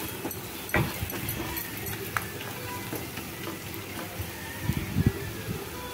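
Chopped garlic and spring onion sizzling in melted butter in a nonstick kadai, stirred and scraped with a wooden spatula. A few soft knocks of the spatula against the pan come about a second in, a little past two seconds, and twice around five seconds.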